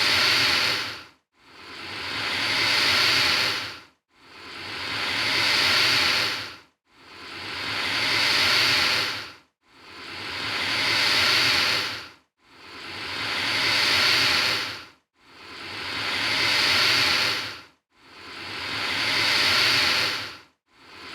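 Alligator hissing, repeated about every three seconds: each hiss swells for about two seconds and then cuts off. The hisses are alike from one to the next, as from a looped recording.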